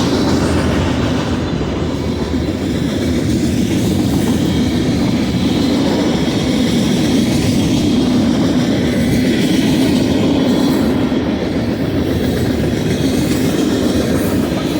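Freight cars of a BNSF local freight train rolling past, making a steady loud rumble with the clickety-clack of wheels over the rails.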